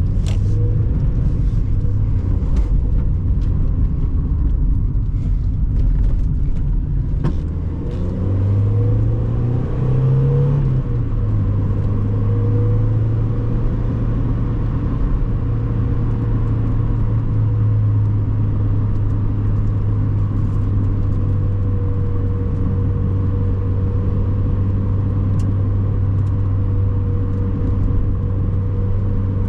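1997 Mazda MX-5 Miata's four-cylinder engine running on the move. The pitch shifts and climbs briefly about ten seconds in, then holds steady as the car cruises, with a few clicks and rattles early on.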